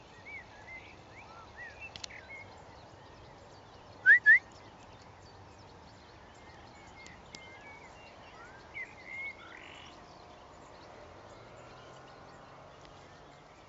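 Birds calling: scattered small chirps throughout, with two loud, short rising calls about four seconds in and two more near nine seconds.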